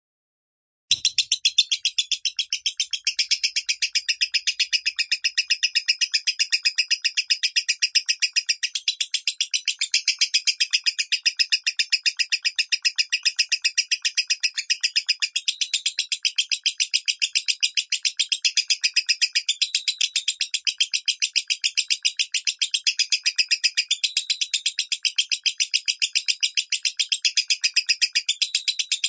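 Lovebird with the high-pitched 'minor' voice prized by Indonesian keepers, chattering in a continuous, rapid stream of shrill chirps, many to the second. It starts abruptly about a second in.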